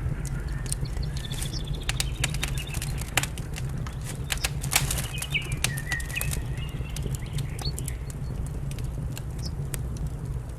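Wood fire crackling with sharp pops, thickest in the first half, while small birds chirp in short calls. A steady low rumble runs underneath.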